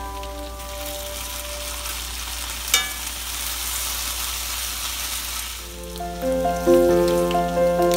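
Diced potatoes sizzling in oil in a cast-iron skillet while a metal spatula stirs and turns them, with one sharp clack of the spatula on the pan about three seconds in. Soft background music fades out at the start and comes back near the end.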